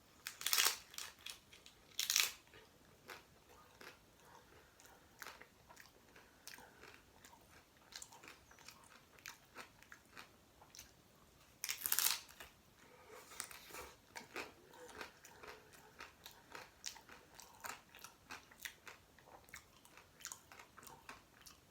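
Eating a chickpea curry and mashed potato taco: three loud bites, about half a second, two seconds and twelve seconds in, with many short wet chewing clicks and smacks between and after them.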